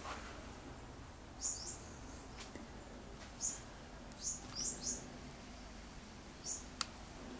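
Small birds chirping: about six short, high chirps, each dipping quickly in pitch, spaced irregularly a second or so apart. A single sharp click comes near the end.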